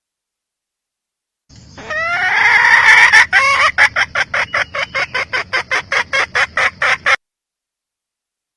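Red junglefowl hen cackling: a few rising calls, then a fast run of short clucks at about four to five a second, which cuts off abruptly near the end.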